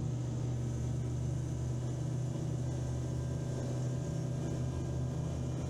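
All-terrain vehicle's engine and drivetrain droning steadily while cruising at about 50 km/h, heard from inside the cabin.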